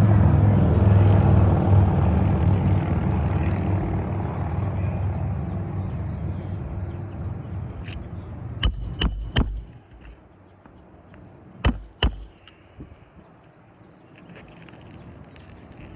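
A passing motor vehicle's engine rumble, loudest at the start and fading away over about ten seconds. Then five sharp metallic taps with a short ring: three in quick succession about nine seconds in, and two more about three seconds later.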